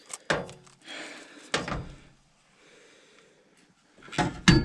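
Sharp knocks and clatter from work on a furnace's gas piping and fittings. There are two single knocks in the first couple of seconds, then a quick run of handling clatter near the end.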